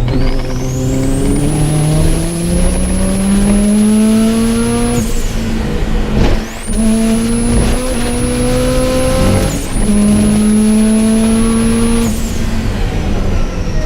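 Subaru Impreza GC8 engine pulling hard under full throttle on track, its pitch climbing through long runs and dropping sharply at two gear changes about five and nine and a half seconds in, with a high whine that rises and holds during each pull. Near the end the pitch falls away as the throttle is lifted.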